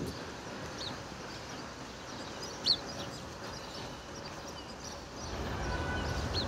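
A few short, high bird chirps, one of them sharp and loud about two and a half seconds in, over a steady hum of city traffic that grows louder near the end.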